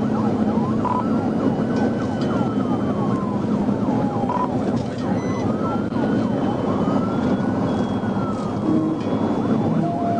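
Police car siren wailing in slow rise-and-fall sweeps over steady road and engine noise during a high-speed pursuit.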